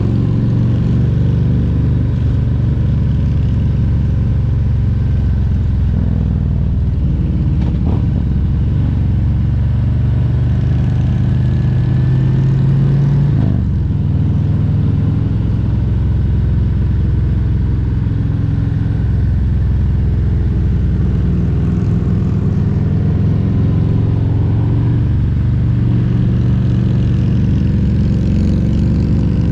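2022 Harley-Davidson Road Glide Special's Milwaukee-Eight 114 V-twin engine running under way on the road. The engine note climbs for several seconds, drops suddenly about halfway through, then holds steady and rises a little again near the end.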